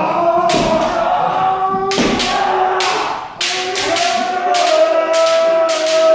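Kendo group practice: bamboo shinai striking armour in sharp, irregular cracks, several a second, over long held kiai shouts from many voices at once.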